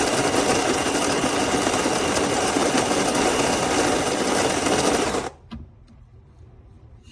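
Electric coffee grinder running steadily as it grinds coffee beans on a coarse French press setting. The motor cuts off suddenly about five seconds in as its 10-second timer runs out, leaving a few faint clicks.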